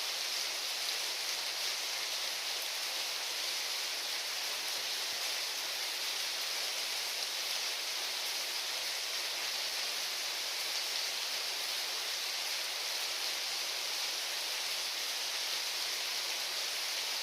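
Steady rainfall, an even unbroken hiss of rain coming down.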